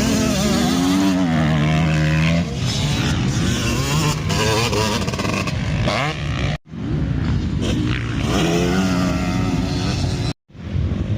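Motocross bike engines revving up and down as the bikes ride the track, several at different pitches, rising and falling with the throttle. The sound cuts out abruptly for a moment twice, about six and a half seconds in and near the end.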